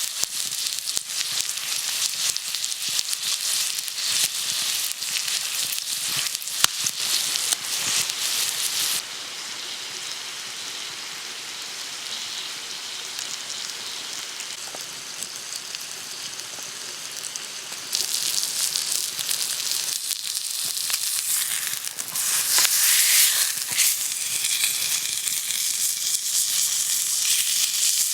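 Food sizzling and frying in a hot pan, with a steady hiss and many small sharp crackles. The sizzle drops quieter about nine seconds in and comes back louder about halfway through.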